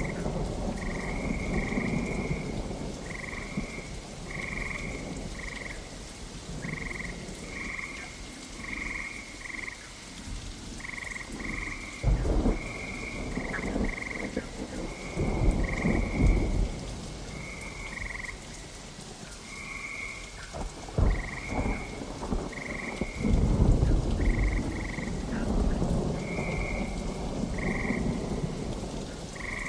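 Steady rain with thunder: sharp cracks about twelve and twenty-one seconds in, and heavy rolling rumbles around sixteen and twenty-four seconds. Over the rain a frog calls again and again in short, high croaks, one or two a second.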